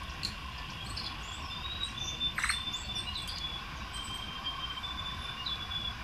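Forest birds calling: thin, high whistled notes that come and go, with scattered short chirps and a brief rapid rattle of clicks about two and a half seconds in, over a low rumble.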